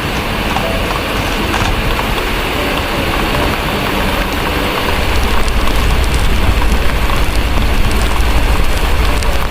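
Heavy steady rain with small crackles from a fireplace. About halfway through, a deep low rumble of distant thunder comes in and holds, making the whole more intense.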